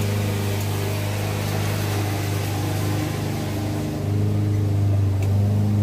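A steady low machine hum that grows a little louder about four seconds in.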